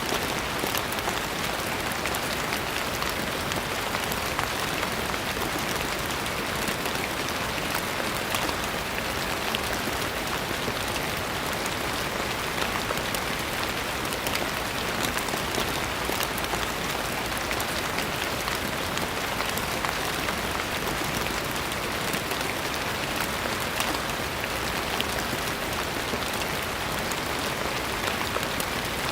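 Steady gentle rain falling on a surface, a continuous even hiss filled with many small drop ticks.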